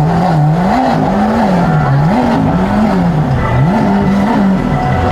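A car engine revved up and down over and over, its pitch climbing and dropping about once a second.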